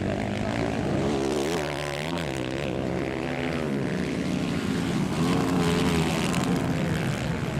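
Several 160cc motorcycle engines racing, their pitch rising and falling over and over as the riders work the throttle and shift gears.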